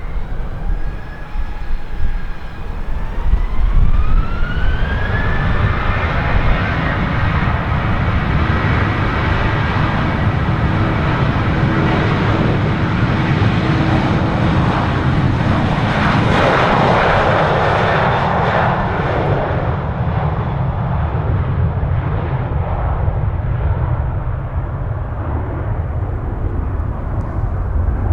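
Boeing 737-800's CFM56-7B turbofan engines spooling up to takeoff thrust. A whine rises in pitch over the first few seconds, then holds steady over a deep rumble as the jet rolls down the runway. The noise is loudest a little past the middle as the aircraft passes, then its high-pitched part fades as it moves away.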